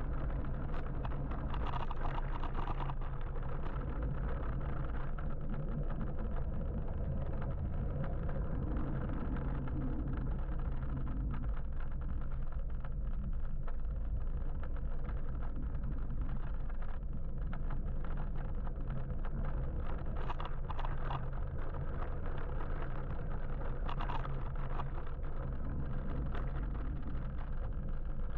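Steady wind and road noise of an electric motorbike riding through city traffic, a constant low rumble with a few brief louder moments.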